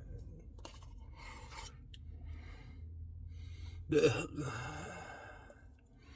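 A man's breaths and mouth noises while eating ice cream, with a few soft short sounds and then a loud voiced exhale about four seconds in.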